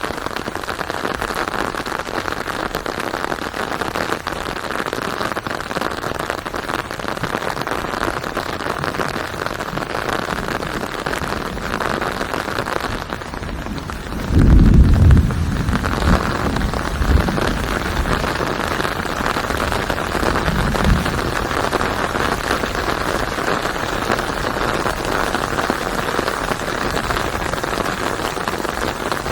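Steady rain falling, an even hiss of drops on a surface, with a loud low rumble of thunder about halfway through and two fainter rumbles a few seconds after it.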